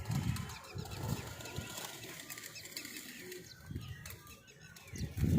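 Pigeons' wings flapping in short flutters. A louder low-pitched burst comes near the end.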